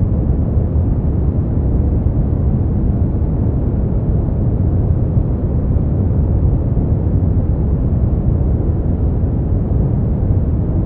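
Steady brown noise: an even, deep rushing hiss with most of its weight in the low end, thinning out above about 1 kHz and never changing.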